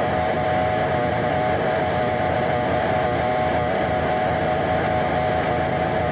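Harsh noise / power electronics track: a dense, unbroken wall of distorted noise with a steady droning tone held over it.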